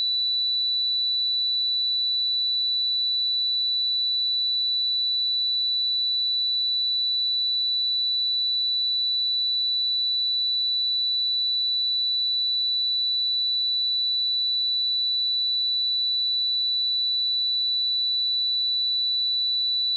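Steady pure sine-wave test tone at 3963 Hz, a single high-pitched note held at constant pitch and level.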